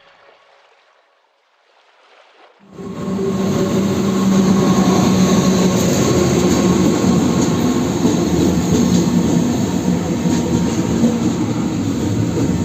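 Near silence, then after almost three seconds a train locomotive starts up suddenly: its engine runs loud and steady, with a low hum, over general train noise.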